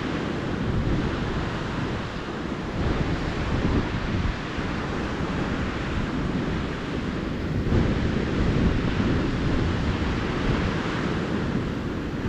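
Calm ocean surf washing up a sandy beach, a steady hiss of breaking water with new waves surging in about three and about eight seconds in. A low rumble of wind buffets the microphone underneath.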